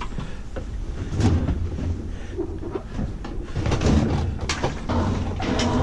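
Washing machine being maneuvered out by hand, with repeated knocks, clunks and rattles over a low rolling rumble.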